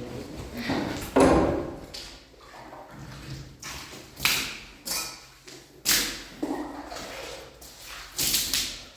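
A series of irregular knocks and scrapes, about half a dozen spaced a second or so apart, the loudest a little over a second in.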